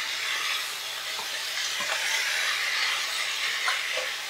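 Cauliflower stalks frying in oil and spice masala in a pan, sizzling steadily, with a few light knocks.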